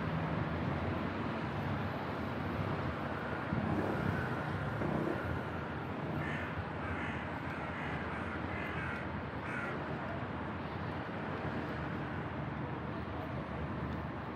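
Steady outdoor street ambience with a low traffic hum. About six seconds in, a bird calls about six times in a row, roughly two calls a second.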